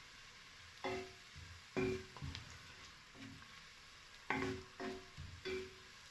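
Onions frying in a pot while being stirred: several sharp scrapes and knocks of the spoon against the pot, each ringing briefly, over a faint steady sizzle.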